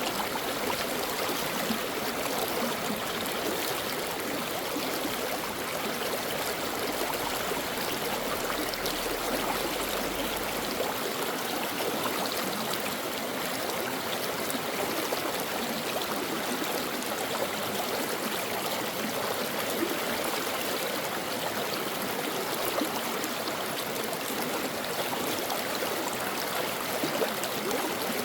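Brook water running and babbling over rocks: a steady, even rush with small splashes and gurgles throughout.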